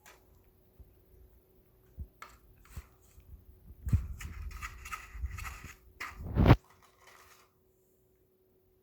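Handling noises: a few light knocks, then a few seconds of rustling and scraping that end in one loud knock.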